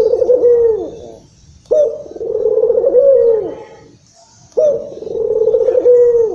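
A puter dove (Barbary dove) cooing loudly: repeated coo phrases about every three seconds, each starting suddenly, running on as a long rolling coo and closing with a falling note.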